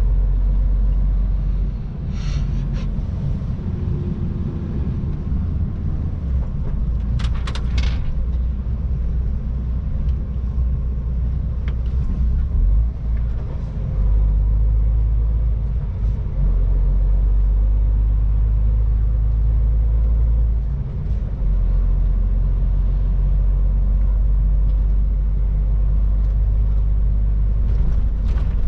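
MAN TGX 18.510 truck's six-cylinder diesel and road noise while driving: a steady low rumble, with a few brief higher-pitched noises about two seconds in and again around seven to eight seconds in.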